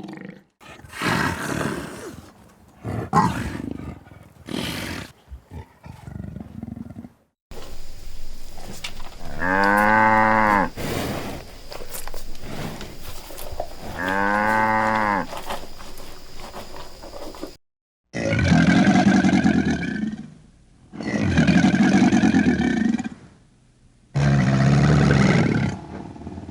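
Large animals calling in a run of separate clips: two long pitched calls about four seconds apart, then three loud, rough calls of about two seconds each.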